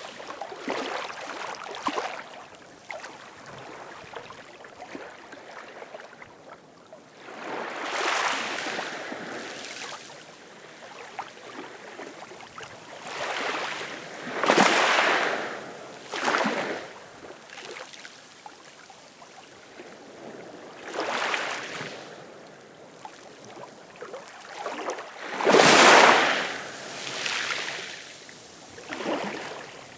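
Ocean waves breaking and washing in, each wave a rushing surge that swells and falls away, a few seconds apart; one wave near the end is the loudest.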